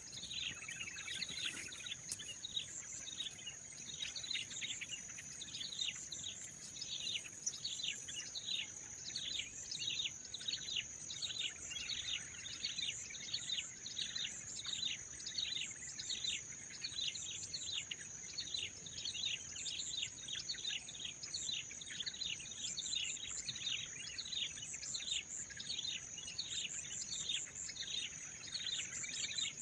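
Small birds chirping continuously, a dense run of short falling calls about two a second, over a steady high insect trill.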